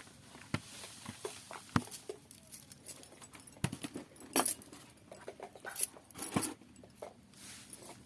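Irregular clicks, light knocks and rustles of kitchen work with leafy greens and utensils, with a few sharper knocks standing out and no steady rhythm.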